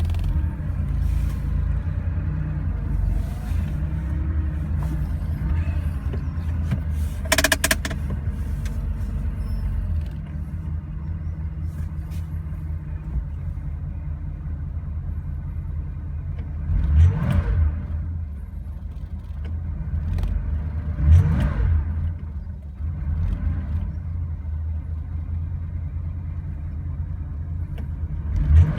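1970 Porsche 911T's air-cooled 2.2-litre flat-six idling steadily, then blipped four times in the second half, each rev rising and falling quickly. The engine has been refitted with aluminium cylinders, and the owner suspects 911S pistons and cylinders from how freely it revs. A single sharp click about seven seconds in.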